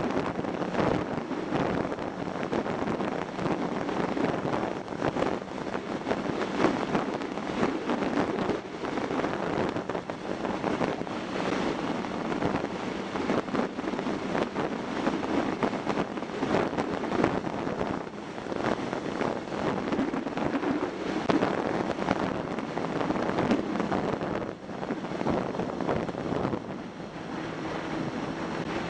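Wind noise buffeting the microphone of a camera on a moving motorcycle, gusting up and down, with the bike's engine as a faint steady hum underneath.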